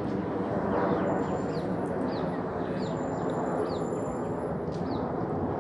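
A small bird chirping over and over, short falling chirps about twice a second, over a steady background of outdoor noise.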